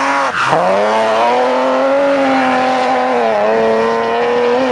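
Rally car engine held at high revs, with a brief dip and recovery about a third of a second in and another short dip about three and a half seconds in.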